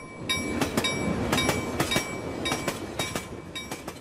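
Train rolling by: a rumble with clanking strikes about three a second and a ringing bell-like tone, fading out near the end.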